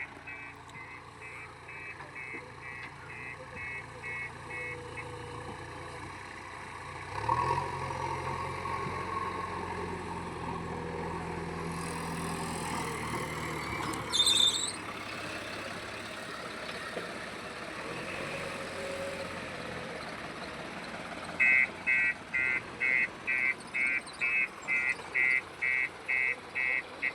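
JCB backhoe loader's reversing alarm beeping about twice a second, over its diesel engine running under load. The alarm stops for a stretch in the middle while the engine grows louder, with a short hiss about halfway through, and the beeping resumes near the end.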